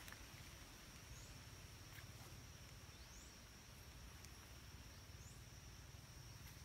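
Near silence: faint outdoor ambience with a steady high-pitched insect drone and three faint short rising chirps.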